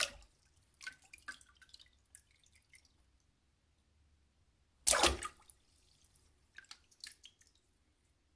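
Two water splashes about five seconds apart, each a sudden splash followed by a scatter of drips and spatters as the water falls back. The second splash is slightly longer.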